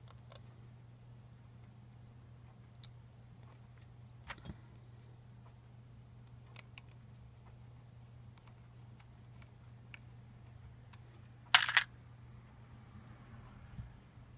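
Scattered light clicks and taps of small hard parts being handled, with a louder rattling clatter about eleven and a half seconds in, over a steady low hum.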